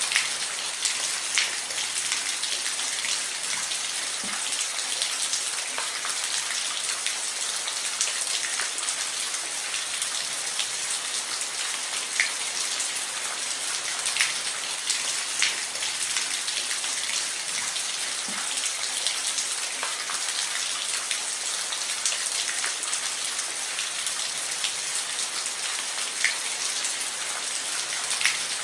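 Steady rain falling on a roof: an even hiss with scattered sharper drop strikes.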